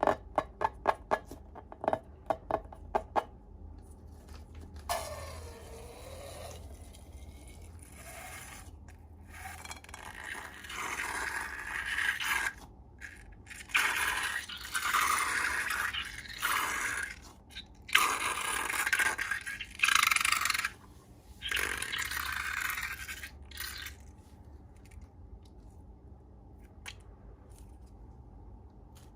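About ten quick, sharp clicks in the first three seconds, then repeated spells of scraping noise lasting a second to a few seconds each, dying down in the last few seconds.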